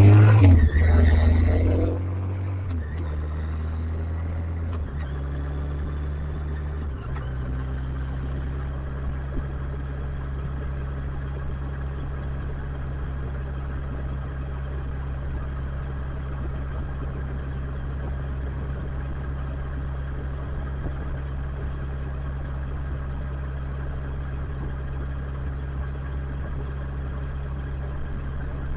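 Motorcycle engine dropping in revs over the first two seconds as the bike slows, then running at a steady low idle for the rest of the time.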